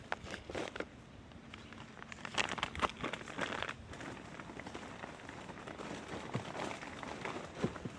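Cornstarch chunks crunching and crackling as they are broken and bitten, in dense clusters of sharp crackles about two to four seconds in, then scattered ones.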